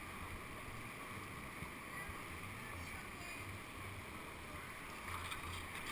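Steady rush of whitewater in a man-made whitewater channel, with an uneven low rumble underneath.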